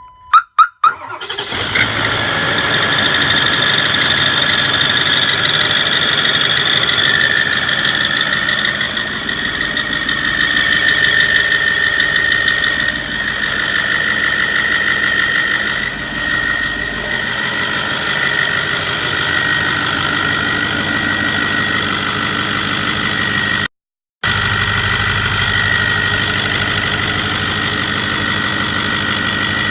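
Ford 6.4L Power Stroke V8 diesel running, with a strange steady high-pitched whine riding over the engine sound; a diesel shop has ruled out the exhaust manifold bolts as its cause. It opens with a few loud sharp pulses about half a second in.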